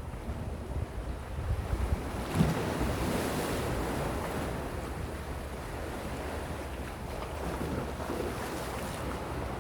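Gentle sea waves washing on the shore, one wave building and breaking about two to three seconds in, then easing back into a steady wash. Wind buffets the microphone with a low rumble underneath.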